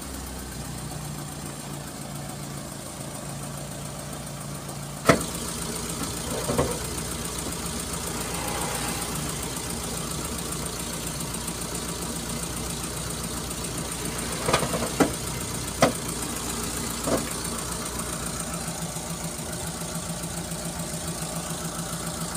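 Mitsubishi Colt T120SS four-cylinder petrol engine idling steadily, with a few sharp clicks, the loudest about five seconds in and the rest about halfway through. It runs heavy rather than crisp, a sign of the loss of power and stuttering that the mechanic goes on to trace by pulling the spark plug leads.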